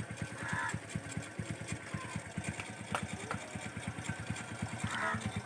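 Bajaj CT 100's single-cylinder four-stroke engine idling, with an even, steady beat of about eight or nine exhaust pulses a second.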